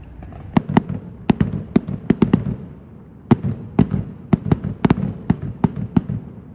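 Fireworks display: a rapid, irregular string of sharp bangs from shells bursting, in two volleys with a short lull between them, over a low rumble.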